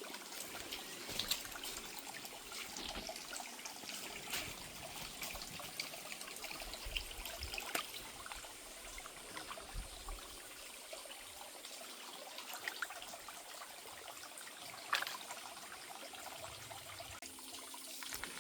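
Shallow stream water trickling steadily, with scattered small splashes and ticks.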